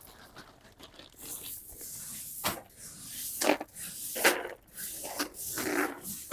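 Pea gravel being poured and shifted from a bag into a plastic bin: a rough hiss that starts about a second in, with several sharp scraping strokes.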